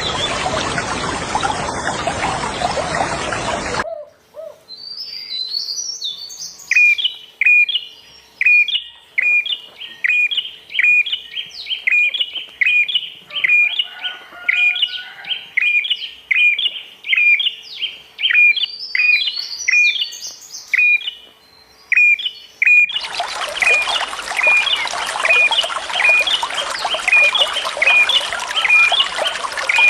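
A bird repeating one short, high chirp about twice a second, steadily. Rushing water covers the first four seconds and comes back abruptly about 23 seconds in, with the chirping going on under it.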